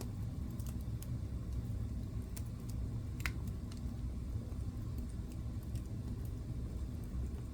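Wood fire burning in a fireplace: a steady low rumble of flames with irregular crackles and pops from the burning wood, one sharper pop a little past the middle.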